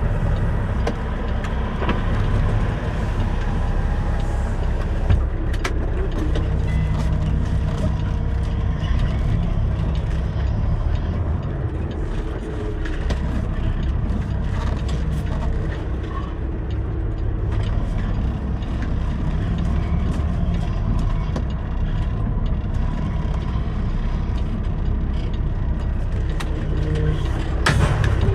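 Semi truck's diesel engine running steadily at low speed, a continuous low drone with small rattles and clicks over it.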